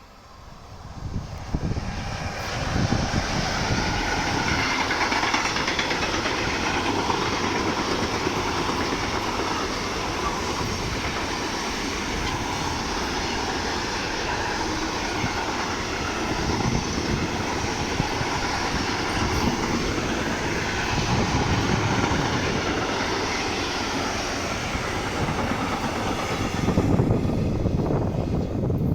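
A train passing by on the rails. The rolling noise builds quickly about a second in, holds steady for some twenty-five seconds, and its high hiss drops away near the end.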